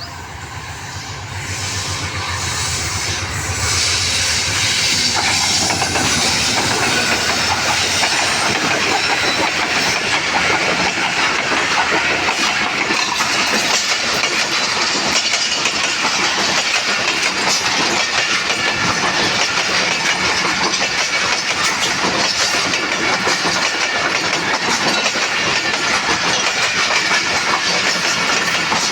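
Allama Iqbal Express passenger train passing at speed. The sound builds over the first few seconds into a steady, loud rush with rapid clatter of coach wheels over the rails.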